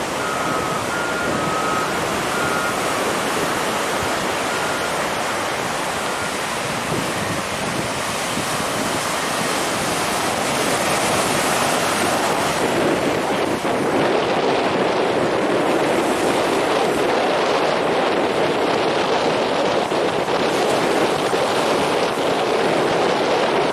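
Ocean surf breaking on the beach, mixed with wind buffeting the microphone: a steady rushing noise that gets louder about halfway through.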